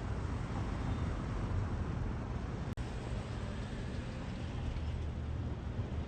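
Steady low outdoor background rumble, like distant traffic, broken by a split-second gap about three seconds in.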